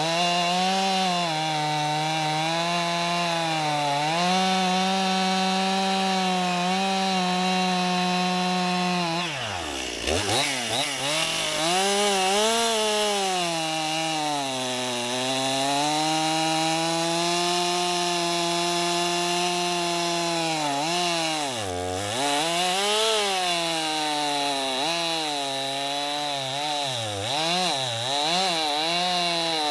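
Stihl two-stroke chainsaw running at high revs while bucking firewood logs, its pitch sagging under load in the cut and picking back up. The engine drops off sharply about ten seconds in and again a little past twenty seconds, and the revs waver up and down quickly near the end.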